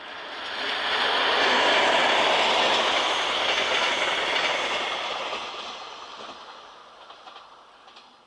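ZSSK class 754 diesel-electric locomotive and its passenger coaches passing at speed. The engine and wheel noise swells to a peak a second or two in, then the rolling noise of the coaches fades as the train moves away, with a few wheel clicks near the end.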